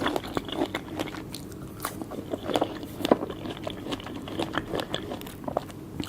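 Close-up chewing and biting of soft fresh fruit, with many short, irregular wet clicks and mouth smacks.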